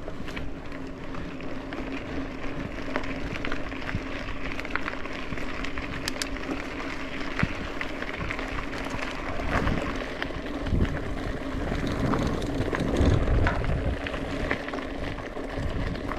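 Mountain bike rolling along a dirt trail, a steady rush of tyre and ride noise with scattered small rattles and clicks. Gusts of low rumble from wind on the microphone come in around the middle.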